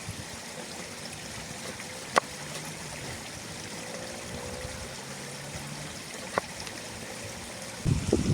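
A stream running steadily, with two sharp clicks, about two seconds in and again about six seconds in. Just before the end a louder, uneven low noise sets in.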